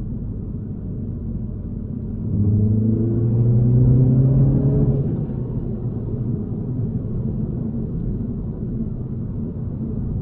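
A 2021 MINI Cooper S's turbocharged 2.0-litre four-cylinder (B48), heard from inside the cabin, cruising with a steady low rumble. A couple of seconds in it pulls harder, the engine note getting louder and rising in pitch for about three seconds, then it eases back to steady cruising.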